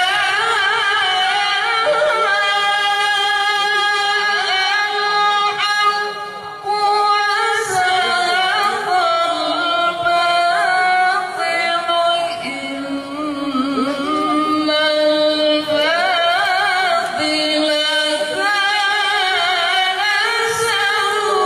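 A qari's solo voice reciting the Qur'an in a melodic, sung style, holding long notes with wavering ornaments and pausing briefly for breath twice.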